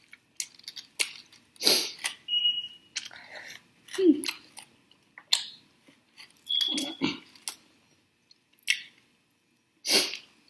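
Close-up chewing and mouth smacks of someone eating a sauced chicken wing: irregular short bites and smacks with brief pauses between.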